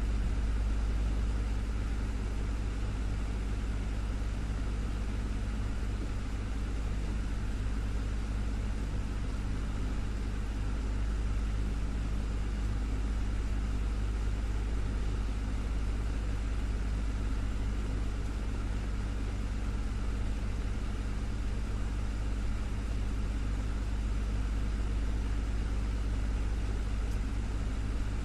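Desktop fan running steadily: a low hum with an even whoosh of moving air, unchanging throughout.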